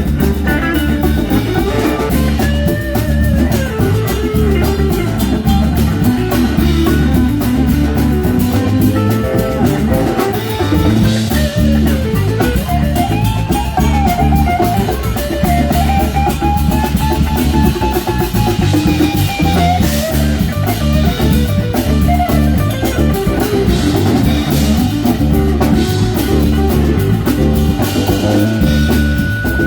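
Live band playing an instrumental passage: guitar with a steady drum kit and bass underneath, and a lead line that glides up and down in pitch.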